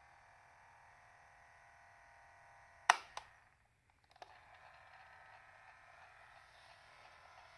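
Mechanical keys of a Sony WM-3040 Walkman cassette player being pressed: a loud sharp click about three seconds in, quickly followed by a second one. The faint steady sound then cuts out briefly and returns after a few softer clicks.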